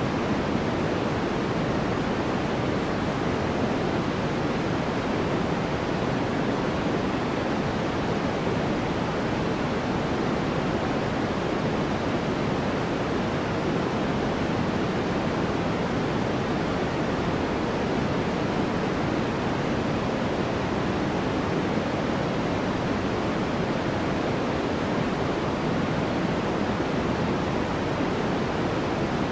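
Steady generated sleep noise, sold as white noise: a constant, unchanging rushing hiss weighted toward the low and middle tones and softer in the highs.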